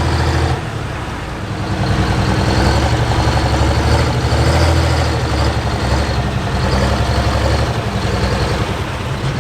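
Light Pro Stock diesel pulling tractor's engine running loudly with a low, steady drone that eases off briefly about a second in and again near the end.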